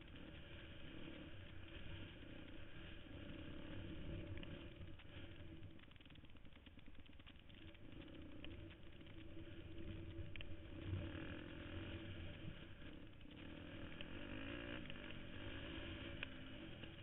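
KTM 250 XC-F dirt bike's four-stroke single-cylinder engine running while riding a trail, its pitch rising and falling as the throttle opens and closes, picked up by a helmet-mounted camera.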